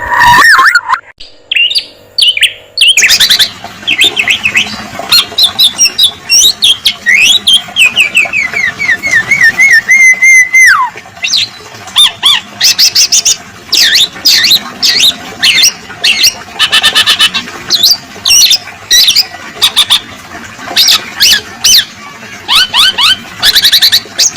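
Songbirds calling loudly and continuously in a fast, varied string of chips, trills and rattles. Between about seven and eleven seconds in, a run of notes steps down in pitch and then drops away. There are abrupt cuts near the start, as in a spliced training recording.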